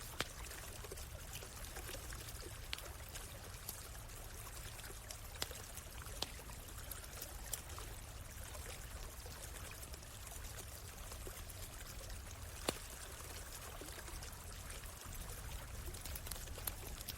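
Stream water flowing in a steady rush, with a campfire crackling over it in sharp, irregular pops.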